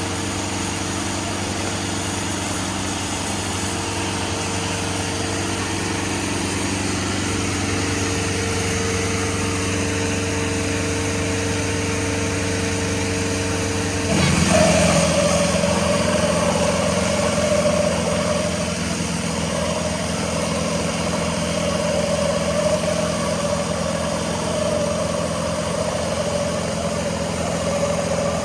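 Tractor engines running steadily at idle, then about halfway through one speeds up sharply and holds a higher, louder pitch.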